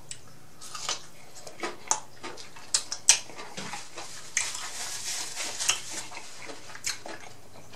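Close-miked chewing of a breaded boneless chicken wing: scattered wet mouth clicks and short crunches.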